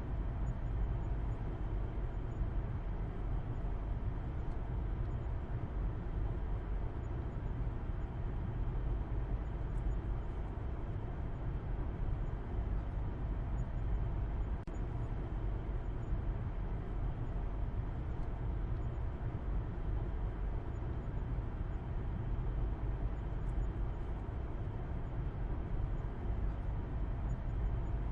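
Steady road noise of a car driving: a deep, even rumble from the engine and tyres, with no sudden events.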